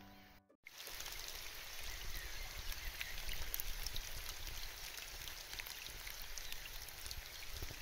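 Rain falling on a lake's open water, many small drops splashing on the surface. It starts after a brief silence about half a second in.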